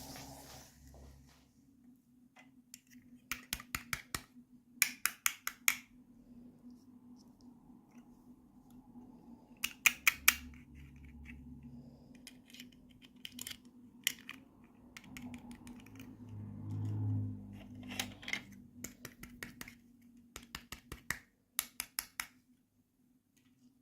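Quick runs of sharp clicks and snips from opening toy packaging by hand. About half a dozen short bursts of several clicks each, over a faint steady hum.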